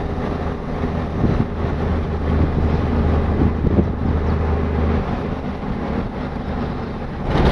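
Overland truck driving: a steady low engine hum with road and tyre noise and a few brief knocks and rattles from the ride.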